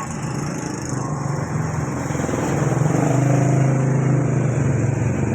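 A motor vehicle's engine running close by, growing louder to a peak about three to four seconds in and then easing off, like a vehicle passing.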